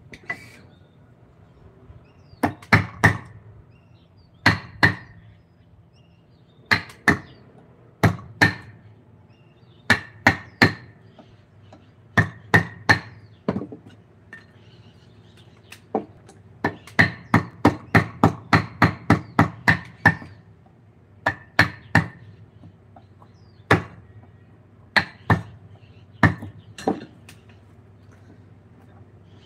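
A mallet striking a carving chisel, driving it into wood, in pairs and short runs of sharp knocks, with a quicker steady run of blows in the middle.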